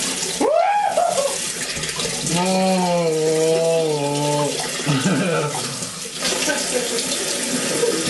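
Water running from a tap into a sink. A person lets out a short cry about half a second in, then a drawn-out wordless moan for about two seconds in the middle.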